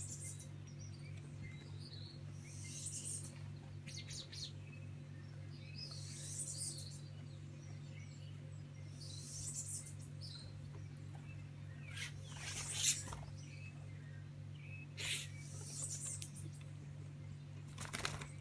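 Small birds chirping, with a short high call repeating about every three seconds, over a steady low hum and a few sharp knocks or taps.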